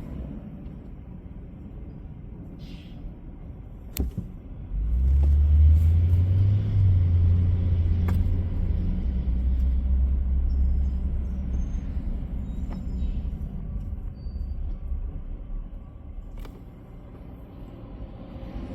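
Heavy truck engine rumbling low and steady, starting up loud about five seconds in after a sharp click, then slowly fading.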